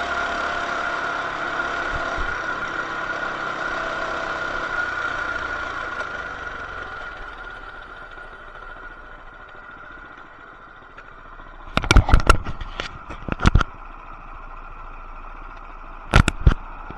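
Coleman BT200X mini bike's small single-cylinder engine running steadily, fading and growing quieter over the first half. Later come two short clusters of sharp clattering knocks, the louder first cluster about twelve seconds in and a shorter one near the end.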